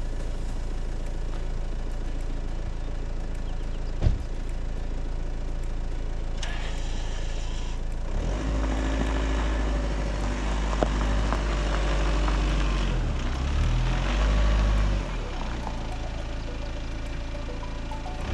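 A vehicle engine idling steadily, then revving up and down from about eight seconds in, as when moving off or manoeuvring. A single sharp knock about four seconds in.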